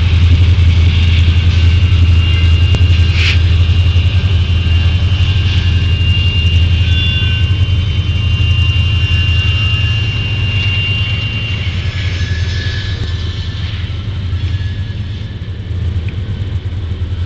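Freight train of grain hopper cars rolling past with a steady, heavy rumble, and a high steel wheel squeal that holds for several seconds. A single sharp clank comes about three seconds in, and the rumble eases a little toward the end.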